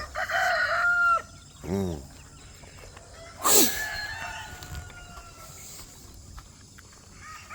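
Roosters crowing, one long crow in the first second and another fainter one after the middle, with short squawking calls from the free-range flock about two seconds in and a loud sharp squawk a little past halfway.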